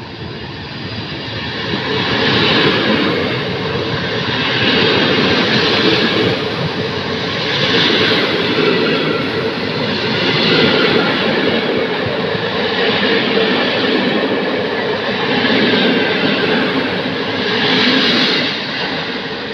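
PKP Intercity passenger coaches rolling past at close range as the train pulls out: a steady wheel-on-rail rumble that swells each time a coach's bogies pass, about every two and a half seconds.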